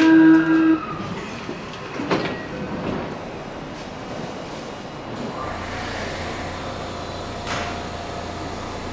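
Electric train at a station platform: the last notes of the platform's electronic chime die away in the first second, then the train rumbles with a few sharp knocks, and a steady low electrical hum starts about five seconds in.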